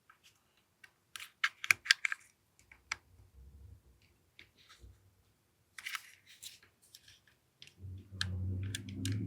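Sharp clicks and snaps of an AAP-01 airsoft pistol's parts being fitted and worked by hand, in a few quick clusters. A low steady hum starts near the end.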